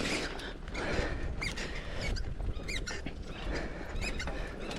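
A bird giving a string of short, high, rising chirps, about one or two a second, over the low rumble of a mountain bike rolling down a dirt trail.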